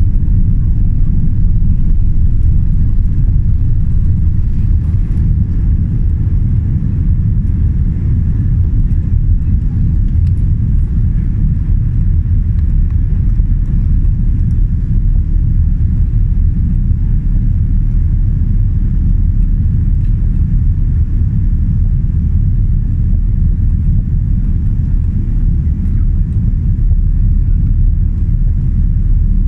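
Boeing 787 airliner cabin noise: a steady low rumble of engines and airflow, unchanging throughout.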